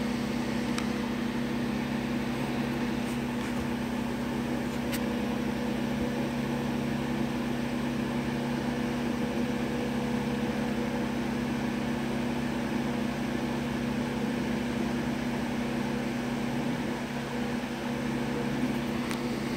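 Steady low hum of a small running machine over an even hiss, with a couple of faint clicks.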